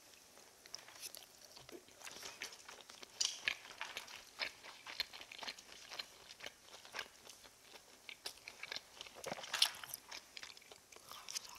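Close-miked chewing of fried fish cake (eomuk): a continuous run of short crunches and clicks.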